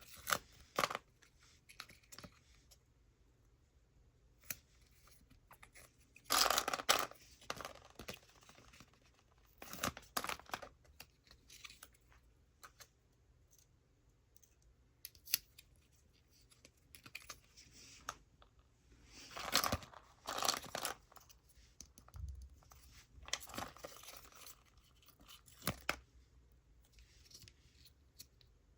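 Packaging being handled and torn open in short bursts of rustling and tearing, with small sharp clicks and taps between quiet pauses.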